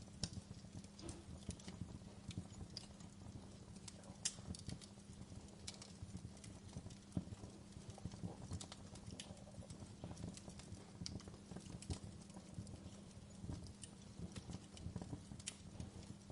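Wood fire crackling: irregular sharp snaps and pops, a few louder ones standing out, over a faint low steady hum.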